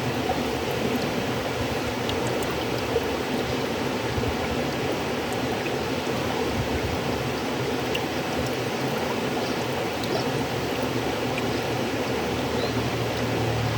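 River water flowing steadily: an even, continuous rush with faint small splashes here and there.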